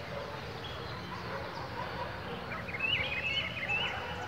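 Birds chirping and singing, with a quick run of chirps about three seconds in, over a low steady outdoor background.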